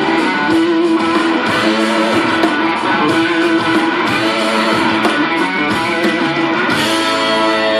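Live blues-rock band playing, electric guitar to the fore over a steady, sustained band sound.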